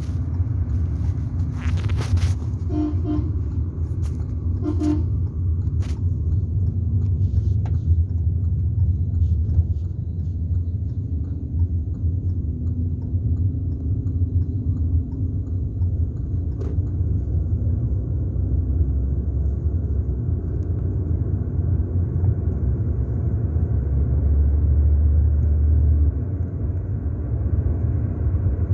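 Steady low rumble of a motor vehicle on the move, with two short horn toots about three and five seconds in.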